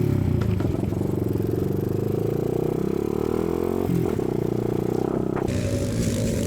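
Motorbike engine running steadily, its pitch shifting slightly; the sound changes abruptly about two thirds of the way through.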